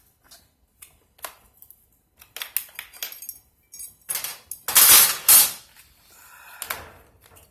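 Metal clinks and knocks as Nissan Leaf battery modules and their hardware are handled, with a loud double clatter about five seconds in.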